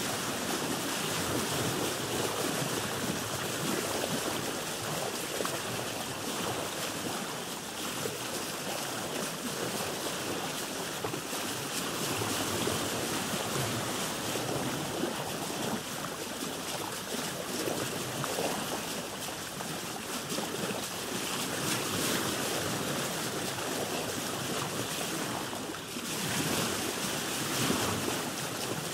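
Sea water washing and lapping around a boat, a steady wash that swells and eases; near the end it dips briefly, then surges louder.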